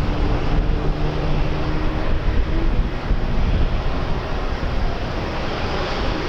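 Strong wind buffeting the microphone, a loud uneven rumble with a steady rushing hiss over it. A faint steady hum sits under it for the first two or three seconds.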